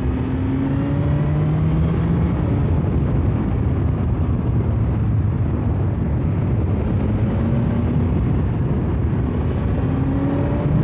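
2021 BMW S1000XR's inline-four engine running under way, its pitch rising gently twice as the bike accelerates, over a steady rush of noise.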